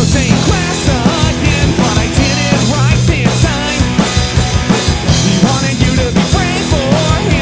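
Punk rock band playing live: drum kit hits over a steady bass, with a wavering melody line on top.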